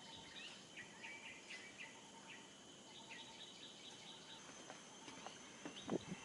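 Faint birds chirping, with a quick run of short repeated notes about three seconds in, over the steady high drone of insects. A few soft knocks near the end.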